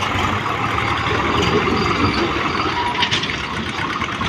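Heavy diesel machinery running steadily, a dense continuous engine noise from the loader and tractors at work.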